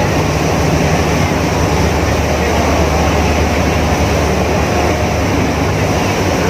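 Ferry engine running with a steady low drone, under an even rushing noise.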